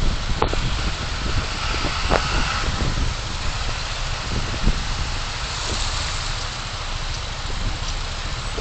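Car on the move: a steady low rumble of engine and road noise with a few faint short knocks.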